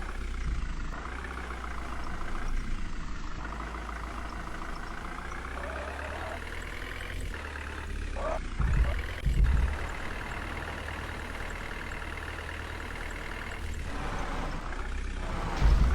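Tractor's diesel engine running steadily, its pitch drifting slightly, with a couple of low thumps about halfway through.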